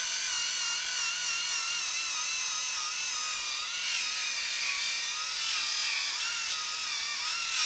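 Cordless angle grinder with a flap disc, running with a steady high whine whose pitch wavers up and down as it grinds a weld. Its battery is nearly dead.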